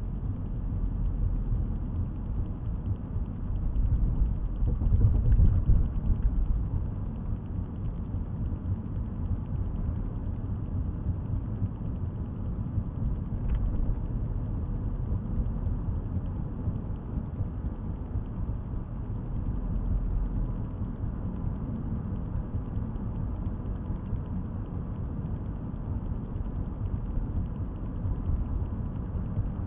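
A car driving, heard from inside the cabin: a steady low rumble of road and engine noise that swells louder about four to six seconds in.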